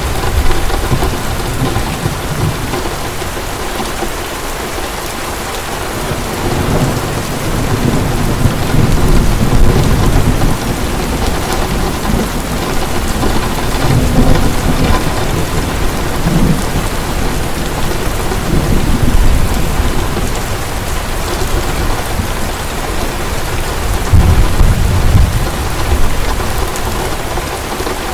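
Heavy rain falling steadily, with thunder rumbling low and swelling several times: near the start, a long roll from about 7 to 11 seconds in, again around 14 and 19 seconds, and a last rumble near the end.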